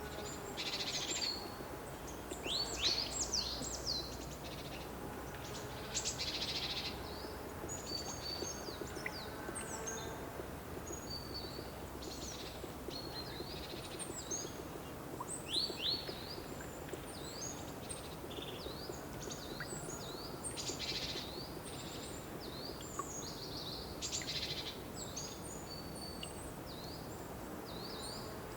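Songbirds chirping and calling, many short high chirps and quick descending notes scattered throughout, over a steady low background hiss.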